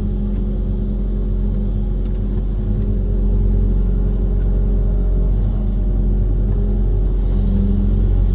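Diesel engine of a Kobelco SK130 amphibious excavator running steadily under load with a deep rumble, getting a little louder about three seconds in.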